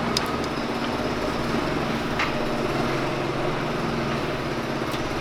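Forklift engine running steadily while it lifts, with a few light metal clicks.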